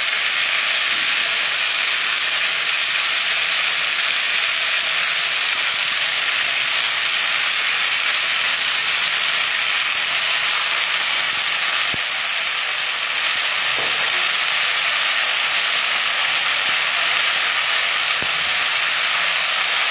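Chopped water spinach sizzling steadily as it fries in hot mustard oil in a pan, with a few faint knocks.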